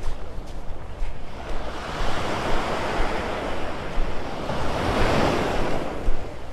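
Surf washing up the beach, swelling twice, about two and five seconds in, with wind rumbling on the microphone.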